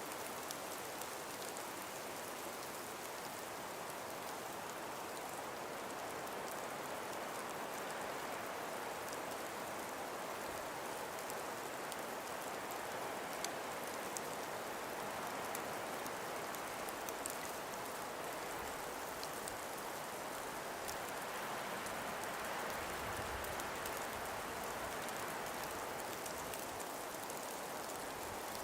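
A calm breeze blowing through an ice-covered winter forest: a soft, even rushing that slowly swells and eases, with a few faint ticks and, late on, a brief low rumble of a gust.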